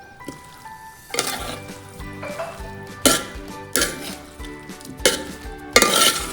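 Chicken frying and sizzling in a pan while a spoon stirs it, the spoon knocking against the pan about five times.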